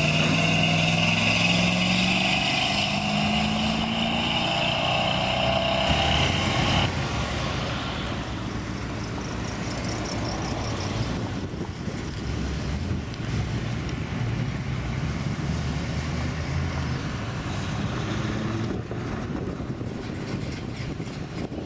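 Car engines driving past one after another as cars leave in a line. For about the first seven seconds one engine is loudest, its revs rising as it accelerates away; after that quieter engine and road noise.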